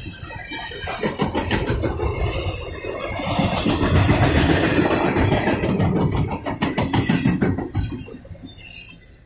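Double-stack intermodal well cars of a freight train rolling past, wheels clicking over the rail joints over a steady rumble. The sound fades away near the end as the last car goes by.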